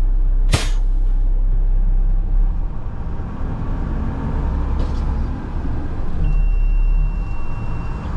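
Front-load garbage truck's diesel engine running heavily, with a short sharp blast of air hiss about half a second in, typical of the air brake being set. The engine eases off a couple of seconds later, and a steady high electronic tone comes on near the end.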